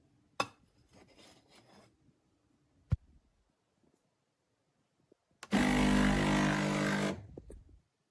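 A couple of sharp clicks with some handling rustle, then a De'Longhi Dedica espresso machine's pump buzzing loudly for under two seconds before cutting off and trailing away.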